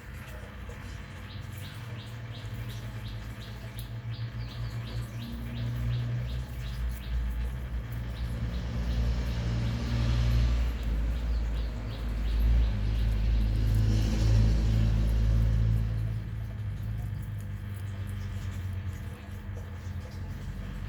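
Low rumble that swells over several seconds in the middle and then fades, with birds chirping faintly in the background.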